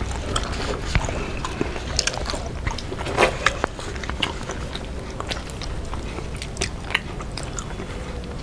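People chewing fish and rice eaten by hand, with irregular short mouth clicks over a steady low hum.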